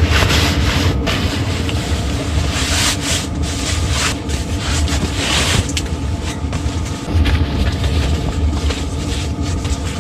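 Rustling and rubbing handling noise, heaviest in the first six seconds, over the steady low drone of an all-in-one diesel heater running.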